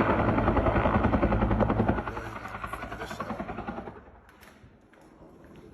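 Helicopter rotor chopping in rapid, even beats, loud at first, then fading away from about two seconds in until it is faint near the end.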